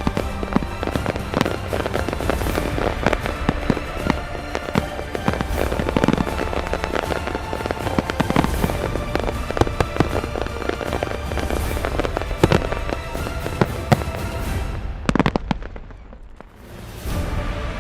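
Fireworks display: dense, continuous crackling and banging of shells bursting, over background music. Near the end the bursts die away for a moment before the music swells back.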